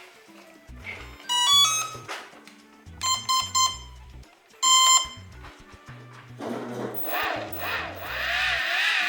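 Electronic speed controller of a brushless RC airplane motor giving its rising start-up tones as the battery is connected, then a short run of beeps and a single arming beep. From about six and a half seconds in, the motor and propeller spin up into a whir that grows louder and sounds a bit rough, which the owners put down to the plane's age.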